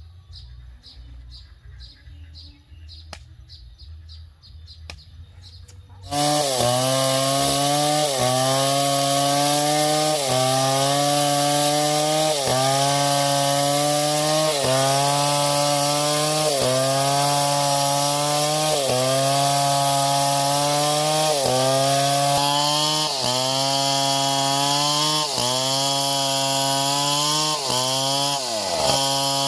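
Petrol-engine saw, most likely a chainsaw, starting suddenly about six seconds in and cutting wood. Its engine pitch sags and recovers about once a second as the cut loads it, then glides down and back up near the end.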